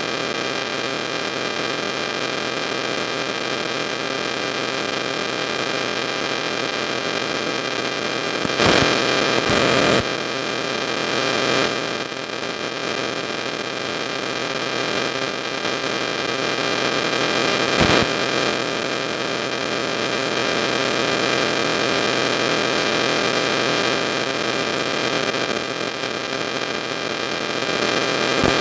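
Steady hiss with an electrical hum running through it, with a couple of short louder bursts of noise, about nine seconds in and again near eighteen seconds.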